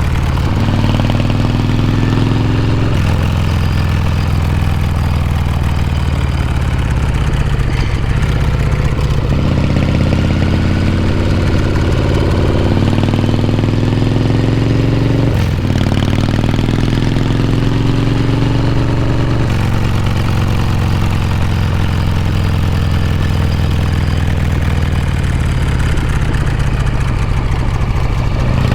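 Harley-Davidson Shovelhead V-twin engine running under way, its exhaust note rising in pitch as it accelerates, dropping back at each gear change about 3, 9, 15 and 19 seconds in, then holding steadier toward the end.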